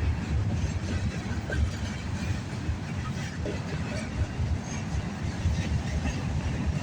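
Mixed freight train rolling past: a steady low rumble of steel wheels on the rails with scattered knocks and clanks from the passing cars.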